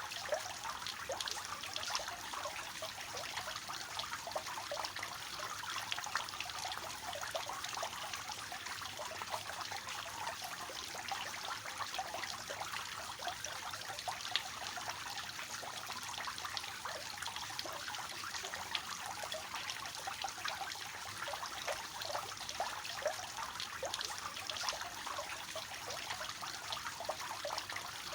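Water falling and splashing steadily from a three-tiered fountain, a continuous trickling patter of many small splashes.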